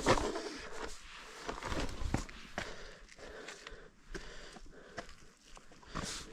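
A hiker's footsteps on a rough trail: uneven steps and scuffs at an irregular pace.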